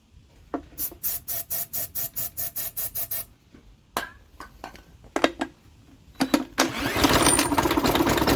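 Briggs & Stratton 3.5 hp lawn mower engine being turned over with a drill after a dose of starting fluid: a run of rapid, evenly spaced pulses for about two and a half seconds, a few clicks, then about six seconds in it fires and runs, growing louder. It is running on the quick-start spray, as the carburetor is not feeding it fuel.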